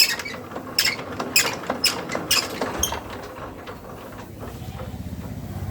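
Power tiller's single-cylinder diesel engine being hand-cranked: a squeaky click about every half second, coming a little faster. About four seconds in the engine catches and runs with a low, fast chugging that grows louder.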